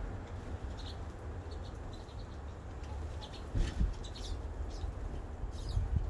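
Small birds giving short, high chirps every second or so over a steady background hiss and low rumble; a couple of dull thumps about three and a half seconds in.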